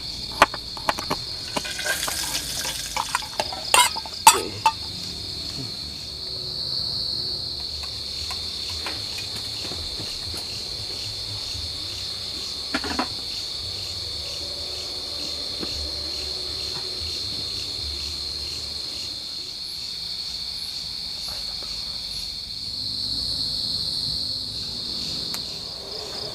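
Forest insects chirring in a steady, high-pitched continuous chorus that swells a little twice. A few sharp clicks or knocks sound in the first few seconds and once around halfway.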